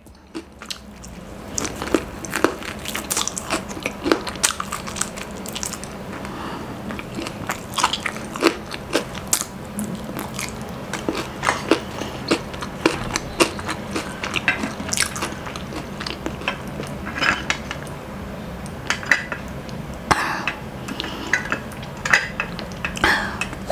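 Close-miked chewing of a last bite of crunchy fried chicken: an irregular run of small crunches and wet mouth clicks.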